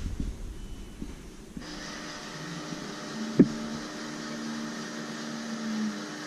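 KONE MonoSpace traction elevator running, with a steady low machine hum and a single sharp click about halfway through. The hum stops shortly before the end.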